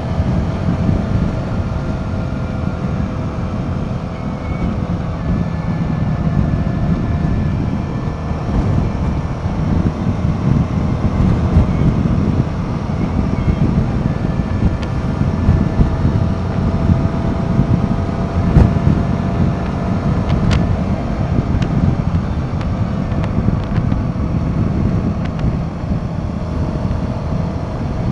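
Royal Enfield Himalayan 450's single-cylinder engine running steadily under way, its note drifting gently up and down, with wind rushing over the microphone.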